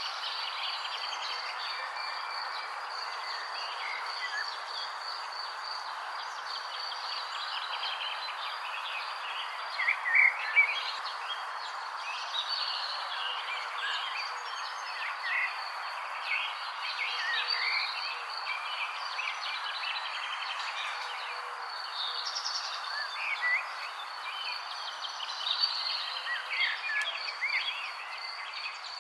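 Songbirds chirping in many quick, short calls, a few louder ones about ten seconds in, over a steady high insect trill and an even background hiss.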